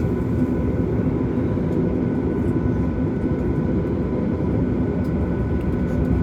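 Inside the cabin of a Boeing 737 MAX taxiing: a steady rumble from its CFM LEAP-1B engines at taxi power, with a few steady hums running through it.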